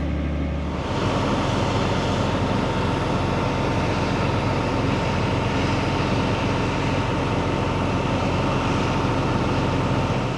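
Heavy farm machinery running steadily, with a constant whine over a rumble; the sound changes abruptly about a second in.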